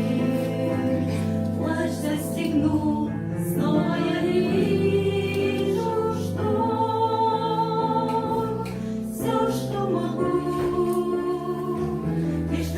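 Christian song music: a choir singing long held chords over accompaniment, with no clear words.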